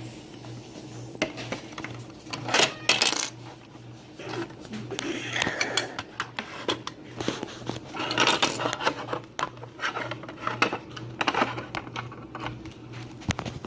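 Small hard plastic toy pieces clicking, tapping and clattering as they are handled and set down, in repeated irregular bursts over a faint steady hum.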